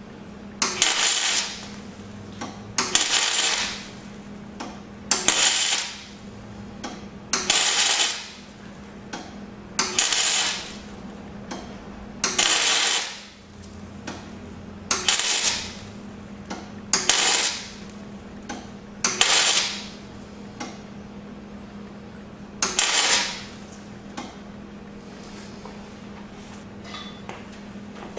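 Welder laying short bursts of weld onto the end of a broken steel exhaust manifold bolt in an aluminum cylinder head, building the stud up so it can be gripped and twisted out. There are about ten crackling bursts, each around a second long, every two to three seconds.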